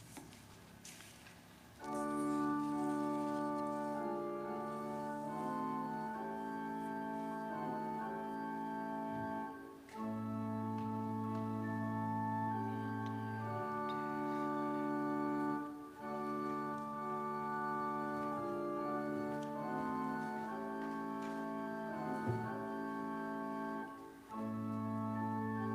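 Organ playing slow, held chords in phrases, starting about two seconds in, with a short break between phrases every six to eight seconds.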